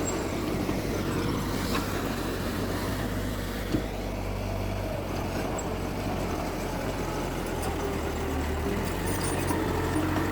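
Heavy diesel machinery engine running steadily, with a single sharp knock about four seconds in.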